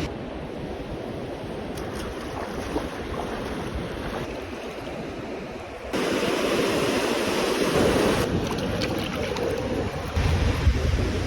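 Wind on the microphone over the steady rush of water, outdoors by the waterside; the sound changes abruptly and gets louder about six seconds in, with low wind rumble near the end.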